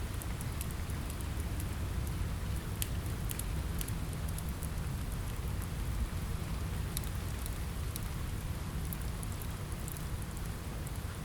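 Steady rain on a window with a low rumble, mixed with the scattered sharp crackles and pops of a wood fire in a fireplace.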